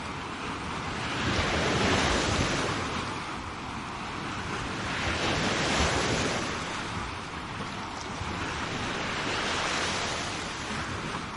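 Sea waves washing onto a shore, the surf swelling and ebbing about three times, with some wind noise on the microphone.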